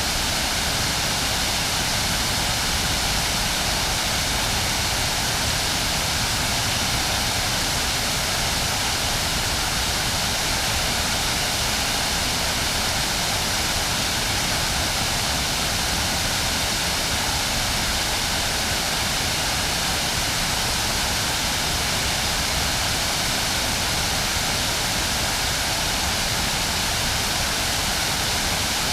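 River water pouring over a waterfall: a steady, unbroken rush.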